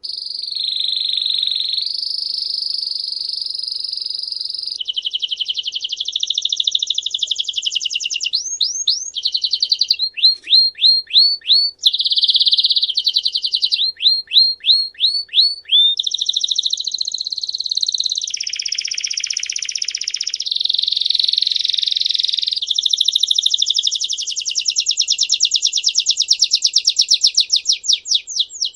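A songbird singing a long, continuous song of fast trills and series of quickly repeated sweeping notes, switching from one phrase to the next every second or two. The song starts abruptly and runs on without pause.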